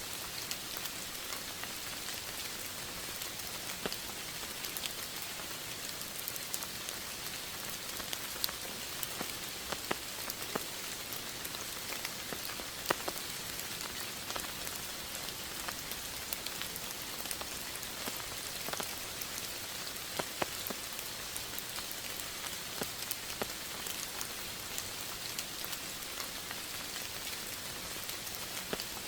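Steady rain falling, a constant hiss with many individual drops pattering and ticking irregularly.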